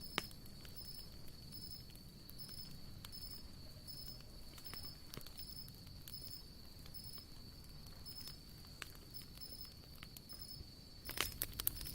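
Wood campfire crackling, with scattered sharp pops throughout and a quick cluster of louder pops near the end. Insects chirp steadily and rhythmically in the background.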